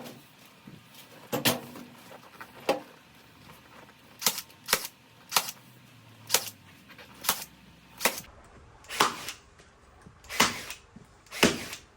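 Milwaukee staple gun firing staples through a vinyl seat cover into a plastic seat base: about a dozen sharp shots, roughly one a second at an uneven pace.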